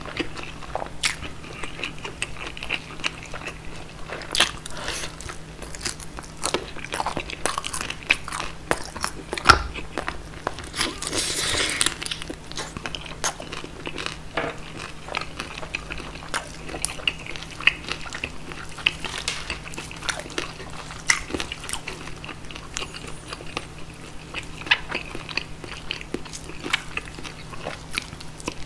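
Close-up mouth sounds of eating roast pork knuckle (schweinshaxe): steady chewing with many small crunchy crackles, and a louder, longer crunch about eleven seconds in.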